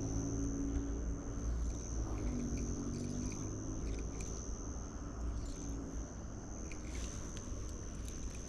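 Insects, likely crickets, trilling in one steady high-pitched note without a break, over a low rumble and a few faint clicks.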